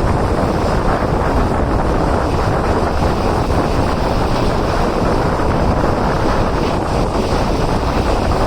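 Wind buffeting the microphone from a moving train, a steady loud rush with a heavy low rumble of the train running underneath.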